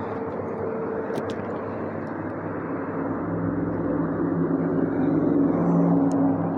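Steady engine drone over a noisy background, with a second engine tone growing louder from about three seconds in, as something approaches.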